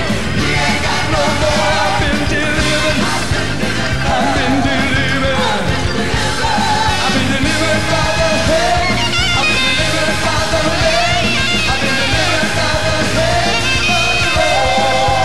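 Church worship band playing with singers, long held sung notes with vibrato over a full, loud band accompaniment.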